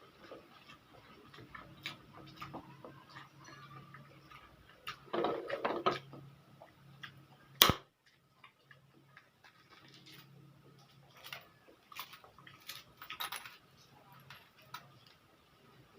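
Close-up eating of pancit canton noodles: small mouth sounds and light clicks of a utensil against a plate. There is a short noisy stretch around five to six seconds in and one sharp clack about eight seconds in.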